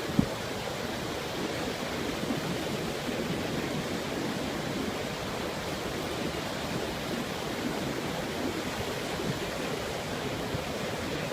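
Steady rush of ocean surf washing in at the shore, with one brief thump just after the start.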